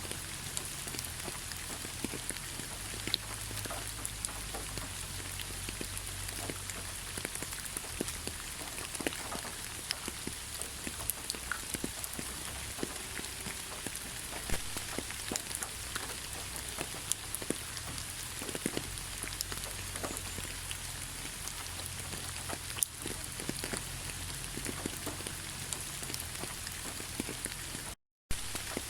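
Heavy rain falling steadily: a dense even hiss with many sharp little splashes of individual drops scattered through it. The sound drops out completely for a split second near the end.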